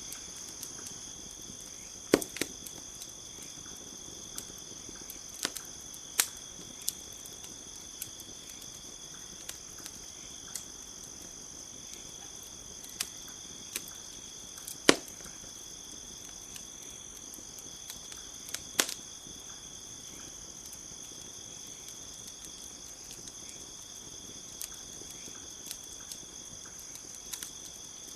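Campfire crackling with irregular sharp pops, the loudest about halfway through, over a steady high-pitched chorus of night insects such as crickets.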